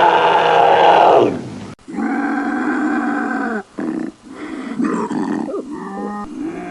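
A series of wild cat calls: drawn-out roaring growls with a clear pitch, several in a row separated by short breaks, the first cut off abruptly.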